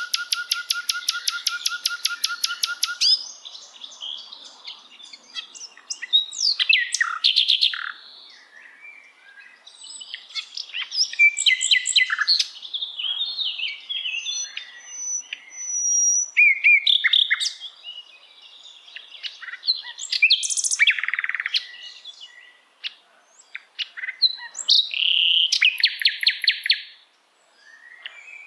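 A songbird called sikatan londo singing a varied song. It opens with about three seconds of rapid, evenly repeated notes, then moves through a string of chirps, whistles, buzzy trills and rattles with short pauses between phrases.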